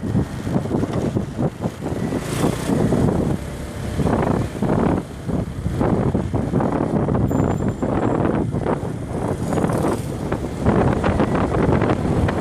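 Riding a motorbike in traffic: engine and road noise under an uneven rush of wind on the microphone.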